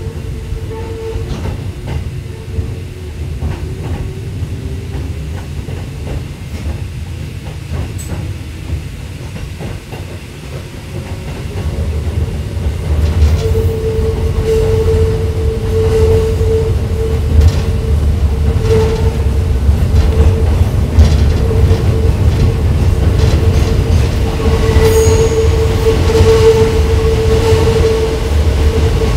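Hakone Tozan Railway electric train running downhill: a low rumble of wheels on rail that grows louder about twelve seconds in, with a steady mid-pitched whine that swells and fades.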